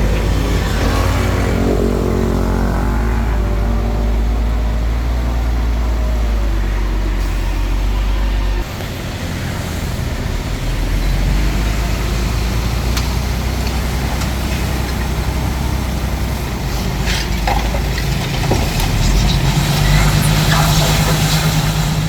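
Bulldozer's diesel engine running under load, its pitch falling over the first few seconds, then dropping suddenly in level about nine seconds in. Scattered knocks follow, and the engine note strengthens near the end.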